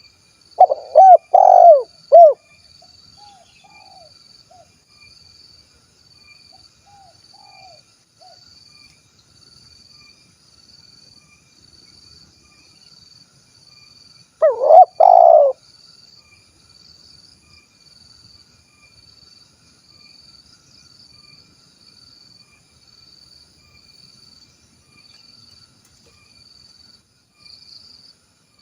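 Spotted dove (tekukur) singing its 'kuk 1' cooing song: a loud run of coos just after the start, a few fainter coos over the next several seconds, then a second loud coo phrase about halfway through.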